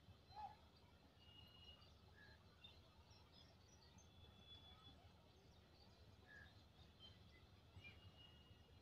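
Near silence: faint scattered bird chirps and short whistles over a low, steady background rumble.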